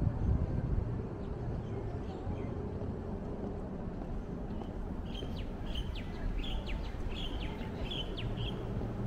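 A small bird chirping in a quick run of short, high calls, starting about halfway through and stopping near the end, over a steady low background rumble.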